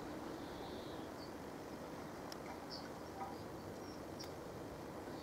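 Quiet outdoor background: a steady low hum of ambient noise with short, high bird chirps about once a second and a faint click near the middle. No crossing alarm or train is heard.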